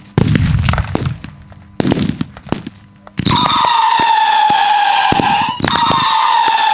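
Daytime fireworks: a few seconds of sharp bangs and crackling, then a loud, shrill whistle from whistling pyrotechnic effects. The whistle holds a steady, slightly falling pitch, breaks off briefly about two seconds later and starts again, with pops over it.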